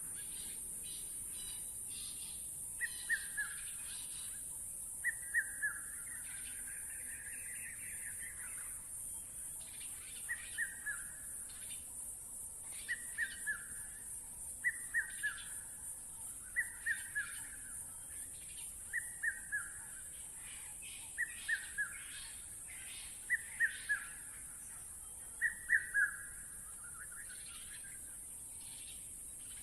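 A bird calling in quick groups of three short, falling notes, repeated about every two seconds, over a steady high hiss.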